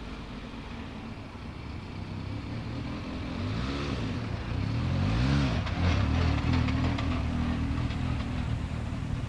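Performance car engine running, revved twice in quick rise-and-fall blips about three and a half and five seconds in, the second louder, then settling back to a steady run.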